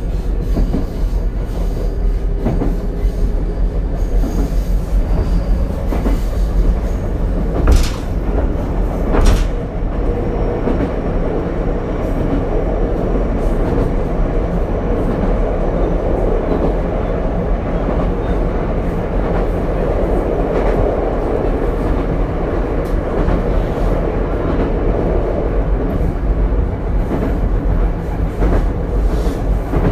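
Interior running sound of the Ichibata Electric Railway 7000-series car 7001 cruising between stations: a steady low rumble of wheels on rail with a faint motor hum. A couple of sharp knocks from the wheels crossing rail joints come about eight and nine seconds in.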